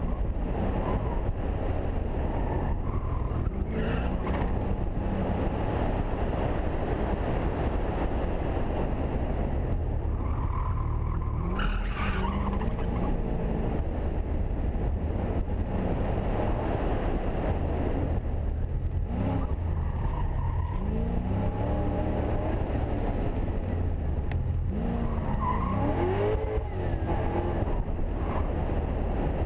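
A custom pro-touring Camaro's engine under hard driving, its pitch rising and falling as the car accelerates and slows between turns, over a constant low rumble of road and wind noise. There is a short burst of tyre squeal about twelve seconds in.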